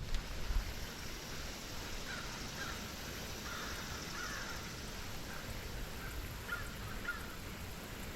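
Faint bird calls, a few short calls scattered through, over a low outdoor rumble.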